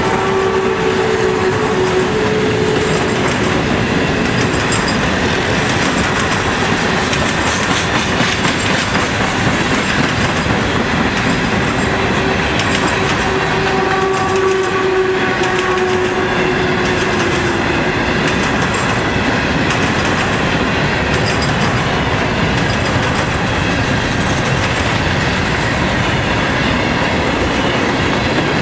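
A freight train's cars rolling past close by: a steady rumble of wheels clattering over the rail joints. A held tone sounds briefly near the start and again around the middle.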